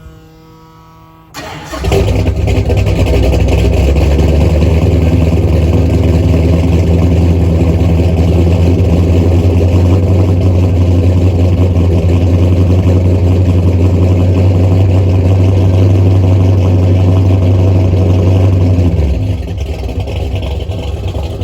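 Ford 460 big-block V8 with a big cam, breathing through long-tube headers and Thrush mufflers, is started: it fires about a second and a half in and runs loud and steady. Near the end the engine speed drops and it settles to a quieter, lumpy idle.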